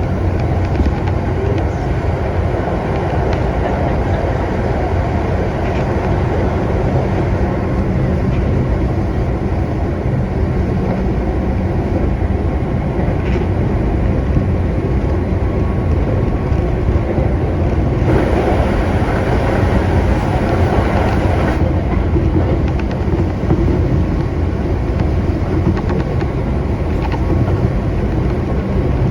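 Keihan electric train running along the track, a steady rumble of wheels and motors heard from inside the carriage. About eighteen seconds in the sound turns brighter for a few seconds, then settles back.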